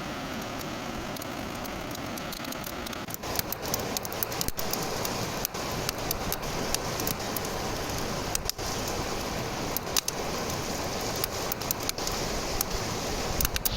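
Campfire crackling, with frequent sharp pops over a steady hiss; the pops start about three seconds in.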